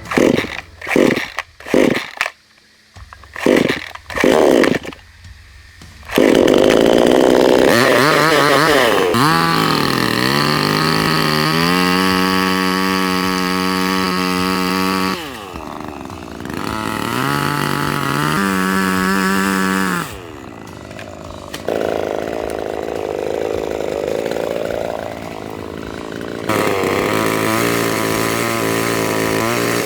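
A power tool's motor running: a handful of short bursts, then a long steady run whose pitch rises and holds, with brief drops in level as the load changes.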